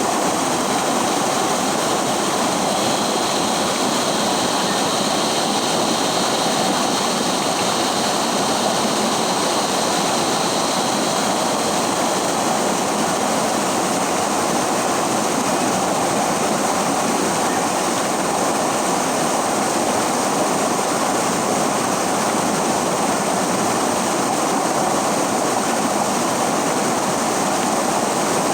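River water rushing steadily in an even, unbroken wash.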